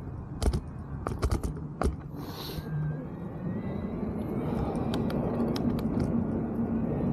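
Mountain bike noise: a few sharp clicks and rattling knocks, a brief hiss, then a steady rolling noise that grows louder.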